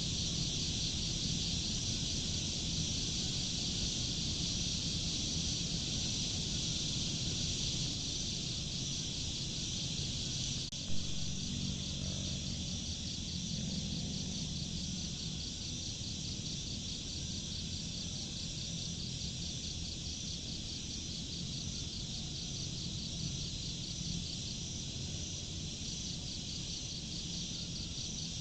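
Steady chorus of crickets and other insects chirping in a fast, even pulse, over a low continuous rumble. A single short click about eleven seconds in.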